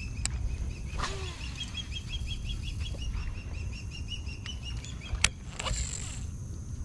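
A bird sings a fast series of repeated chirps, about seven a second, that stops about four and a half seconds in. Then comes a single sharp click and a short whir from a cast with a baitcasting reel.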